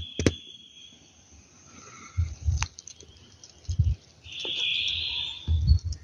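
A small songbird calling: a short high note at the start and a longer high trill about four seconds in. A few low thumps sound in between.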